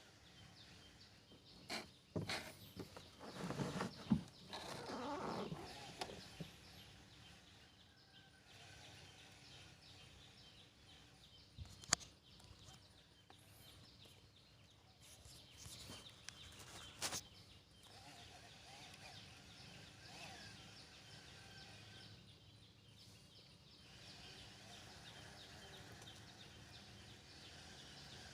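Birds calling, with a louder run of calls from about two to six seconds in. Two sharp knocks follow later, and faint chirping carries on.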